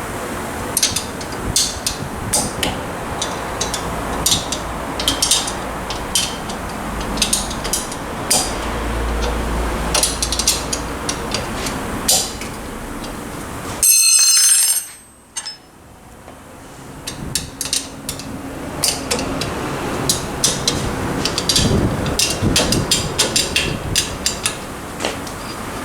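Hand tools clicking and clinking on metal during brake disassembly, irregularly and over a steady background hiss. About halfway through there is a short, loud mechanical buzz.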